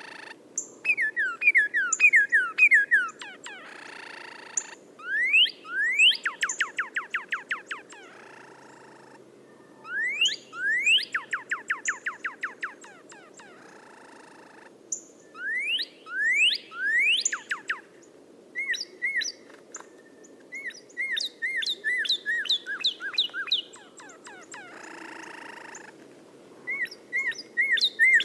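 A caged songbird, kept under the Indonesian trade name "angrybird", singing in repeated phrases of quick sweeping whistle notes fired in rapid runs. Between phrases there are short pauses and a few harsh, rasping notes.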